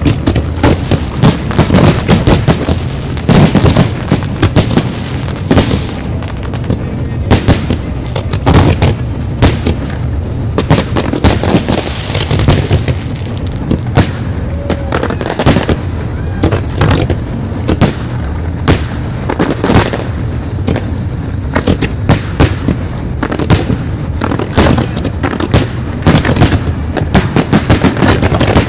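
Fireworks display: a dense, irregular barrage of bangs and crackles, several a second, over a constant low rumble of bursting shells.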